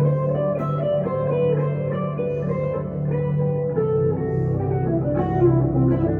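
Electric guitar, a 1962 Gibson Les Paul Custom through a Two Rock Emerald Pro amp, playing a melodic line of sustained notes over a bass line that moves to a new note about four seconds in.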